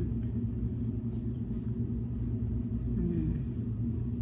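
Steady low rumble of an idling car engine heard from inside the cabin, with a brief low vocal sound, falling in pitch, about three seconds in.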